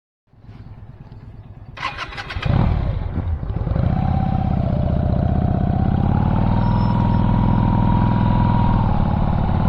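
A vehicle engine being started: starter clicks about two seconds in, then the engine catches and runs steadily, with a whine that rises slightly in pitch.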